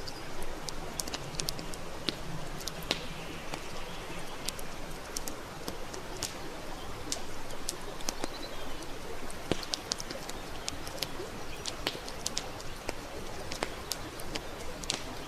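Campfire wood burning, crackling with frequent sharp, irregular pops over a steady hiss.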